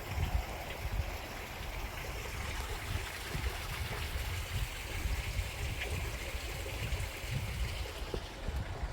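Stream water flowing and trickling in a steady hiss, under an uneven low rumble that is the loudest part of the sound.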